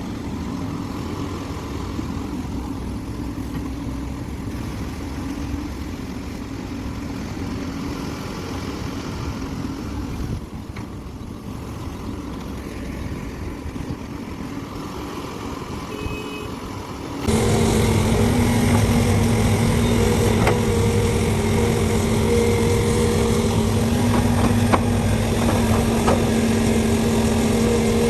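Heavy diesel engines of a large excavator and dump trucks running steadily under work. About two-thirds of the way through, the sound abruptly becomes louder, with a lower, steady engine hum.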